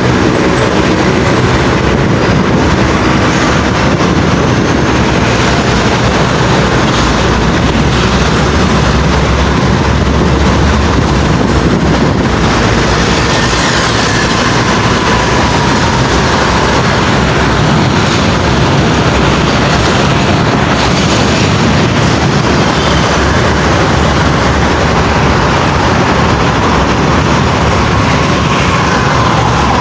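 Heavy trucks driving past: a steady, loud roar of diesel engines and tyres on the road.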